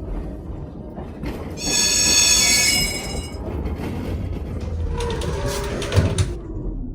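Tatra T3 tram running on rails with a steady low rumble; about a second and a half in, the wheels give a high squeal for nearly two seconds, the loudest sound here. Near the end a falling whine and a single thump.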